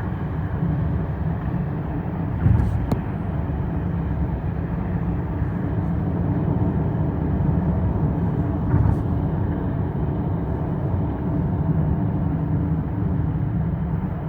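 Steady low rumble of a moving vehicle, with a brief knock about two and a half seconds in and another about nine seconds in.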